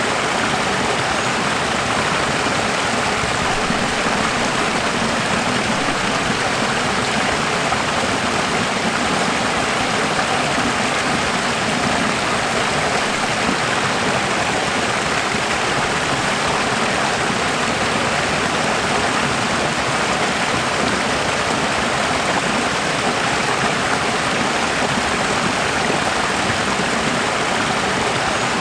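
Running water rushing steadily, like a stream, an even unbroken hiss with no change.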